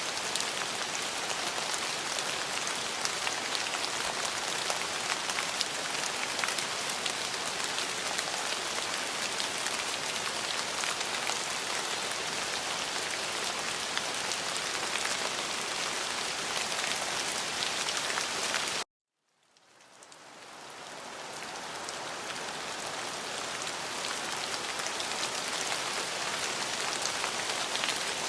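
Steady rain falling, an even hiss of many drops. About two-thirds of the way through it cuts off suddenly to silence, then fades back in over a few seconds, the join of a looped recording.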